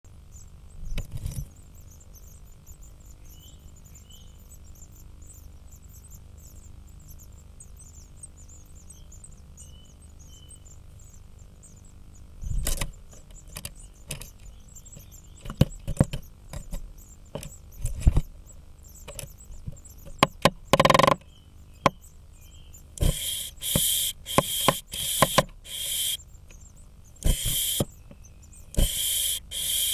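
Irregular sharp knocks and taps on a blue tit nest as a great spotted woodpecker attacks it, over a steady electrical hum. From about 23 seconds comes a run of loud, half-second hissing bursts.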